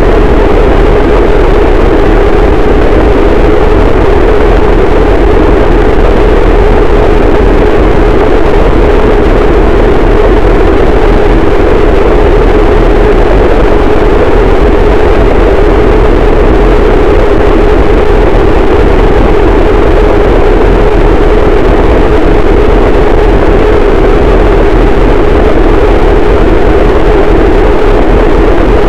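Harsh noise wall: a static, unchanging wall of dense distorted noise at full loudness, heaviest in a low-mid band and the deep bass, with no breaks or changes.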